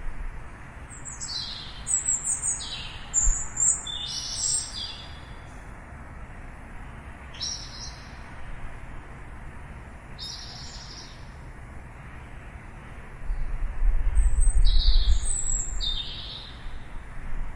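Birds chirping: short, high, downward-sweeping chirps in little clusters, several near the start, a few more scattered later, over a steady background hiss. About thirteen seconds in, a low rumble swells up for a few seconds and is the loudest sound.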